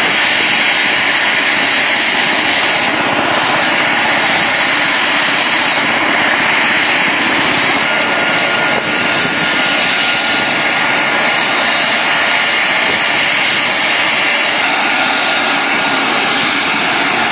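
Helicopter running close by: a loud, steady rush of engine and rotor noise with a thin, high steady whine through much of it.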